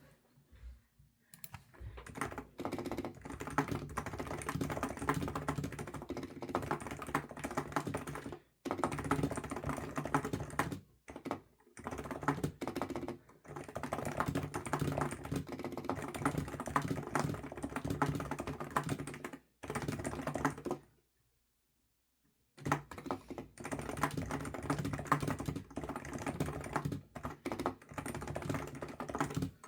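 Typing on a computer keyboard in fast, dense runs of key clicks, broken by a few brief pauses and one longer pause of about two seconds about two-thirds of the way through.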